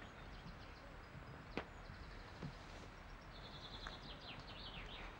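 Faint outdoor ambience with small birds chirping in quick series of short high notes, and a single sharp tap about a second and a half in.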